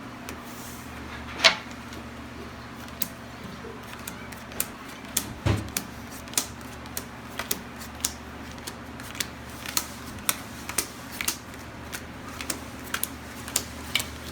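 Playing cards being dealt one at a time onto a table, each landing with a sharp tap, about two a second at an uneven pace. There are louder knocks about a second and a half in and about five and a half seconds in, over a low steady hum.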